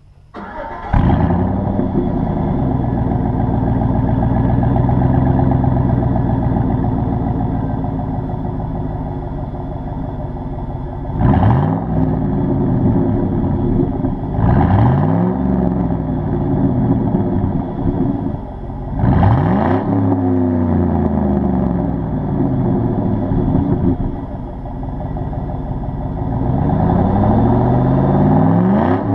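2009 Chevrolet Silverado 1500's 5.3L V8 starting up with a quick flare in revs, then running through its exhaust. It is blipped three times and given a longer rev near the end.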